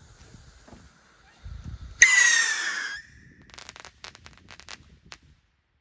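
A firework goes off with a sudden loud whistle that falls slightly in pitch over about a second, followed by a quick string of crackling pops.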